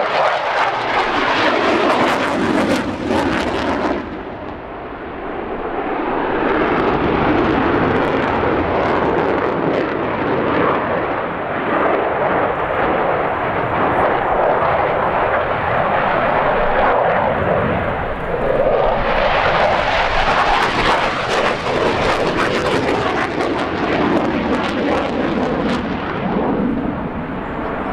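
Loud jet noise from a MiG-29 fighter's twin Klimov RD-33 turbofans as it flies past, dipping about four seconds in and swelling again from about nineteen seconds in.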